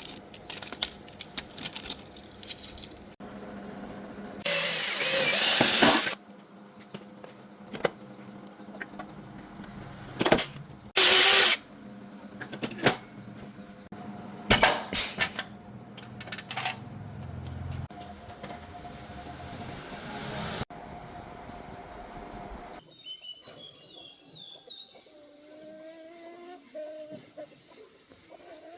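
Workshop tool work: irregular clicks and metal knocks with a few short bursts of a power tool, the longest lasting about a second and a half. About three-quarters of the way in the sound changes abruptly to a quieter scene with a run of short, high gliding calls.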